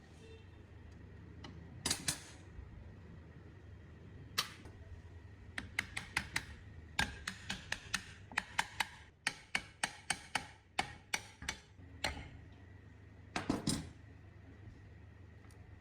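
A series of sharp taps and knocks from hand-tool work on metal parts. A few single strikes come first, then quick runs of about two a second, and a last cluster near the end.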